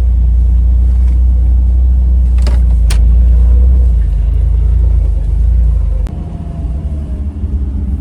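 Jeep rumbling along a rocky off-road trail, a heavy low rumble with a few short knocks, the rumble easing off about six seconds in.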